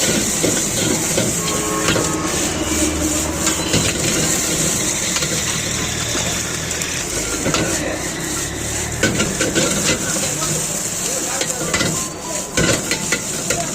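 Food sizzling in a hot wok as it is stir-fried, with a metal ladle repeatedly clanking and scraping against the pan.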